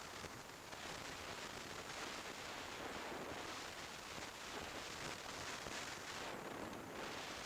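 Steady rush of wind and road noise on a motorcycle-mounted camera's microphone while riding a Kawasaki Z1000SX at speed. It is an even hiss with no clear engine note standing out.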